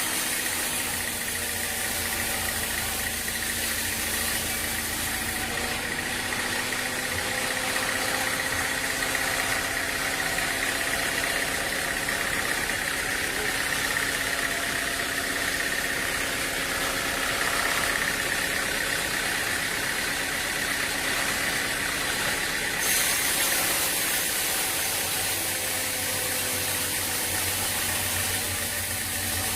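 Sawmill machinery running steadily: an engine-like hum with a high steady whine above it.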